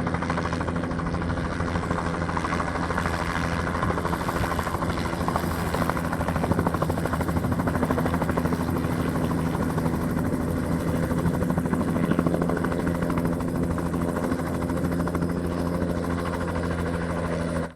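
Bell 206 JetRanger helicopter running close by: a steady, fast rotor chop over the hum of its turbine, with no change in pitch. It cuts off suddenly at the end.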